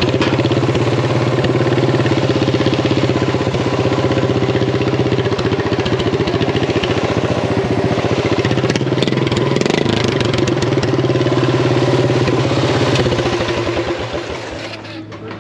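Small lawn-mower engine on a Craftsman race mower, open header, running steadily with a dense, even exhaust note, then slowing and dropping away near the end.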